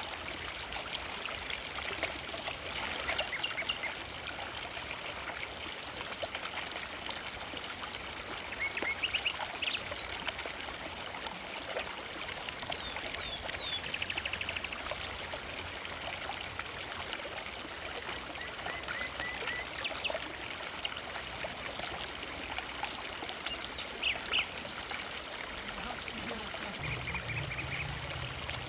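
Forest river flowing steadily, water rushing and trickling over stones and branches, with short high bird chirps now and then over it.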